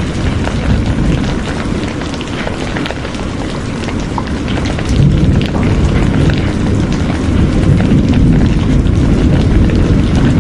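Heavy rain falling steadily: a dense wash of water with many small drop ticks over a deep, continuous low rumble.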